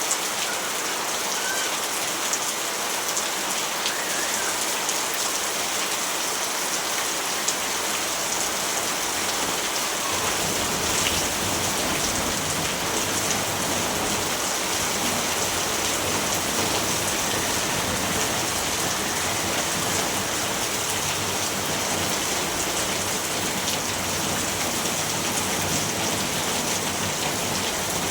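Steady, even rainfall hissing, with a low rumble joining in about a third of the way through.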